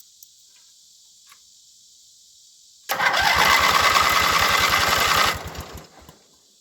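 Newly installed electric starter cranking a Montgomery Ward lawn tractor's engine for about two and a half seconds, with a rapid, even chugging of compression strokes. It starts about three seconds in and stops abruptly; the starter is being tested and cranks well.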